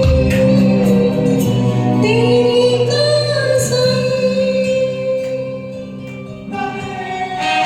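Karaoke singing of a Hindi film song over a backing track, with long held, wavering sung notes over steady accompaniment. The music thins out for a moment about two-thirds of the way through, then a fuller accompaniment comes back near the end.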